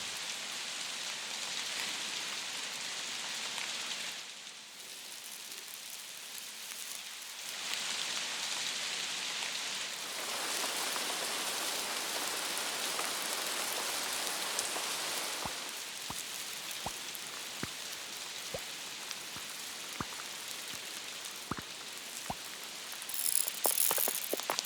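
Steady rain hiss, stepping up and down in level a few times as the ambience changes. In the second half, scattered small clicks join it, about one a second, and a quick flurry of clicks comes near the end.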